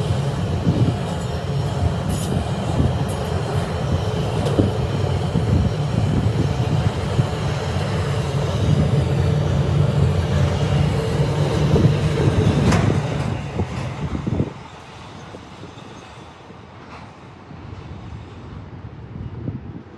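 Train rolling past at close range: a loud, steady rumble of wheels on rail with scattered clicks. About fifteen seconds in the rumble drops off sharply, leaving a much fainter sound.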